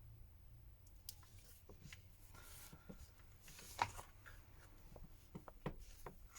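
Faint small clicks and light scratchy rubbing from handling a phone and a tube of silicone glue while glue is run around the back cover's edge.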